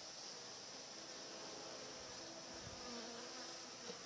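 Honeybees buzzing around an open mini mating nucleus hive: a soft, steady hum of many wings, its pitch wandering.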